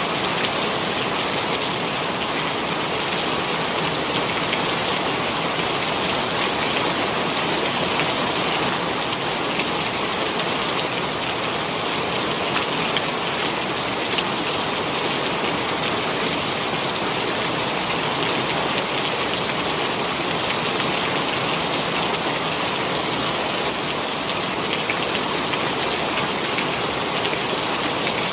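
Heavy rain pouring steadily, a dense even hiss with individual drops ticking through it.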